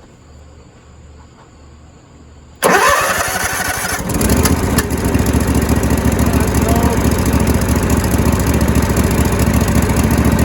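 Floor buffer's engine cranking suddenly about two and a half seconds in, catching about a second later and then running steadily, now fed through its newly fitted fuel regulator valve.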